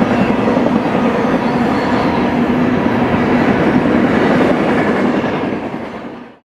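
Double-stack intermodal freight train's well cars rolling past, a steady noise of steel wheels on rail. The sound fades quickly to silence near the end.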